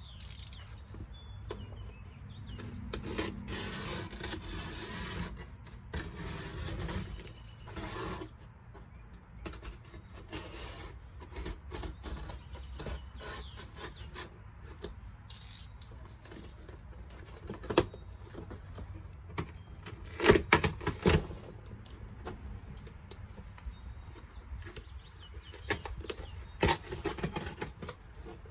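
Shipping box and packing material being opened by hand: long stretches of rubbing, scraping and rustling, with a cluster of sharp knocks about two-thirds of the way through.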